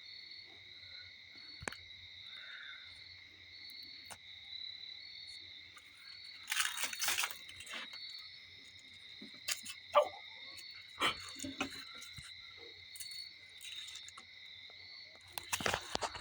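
A steady, high-pitched drone of insects, broken by short bursts of rustling and knocking about six and a half seconds in, twice around ten to eleven seconds in (the loudest), and again near the end.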